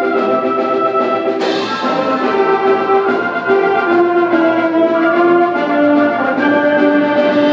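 Concert band playing a piece, brass carrying a sustained melody over the full ensemble, with a cymbal crash about a second and a half in.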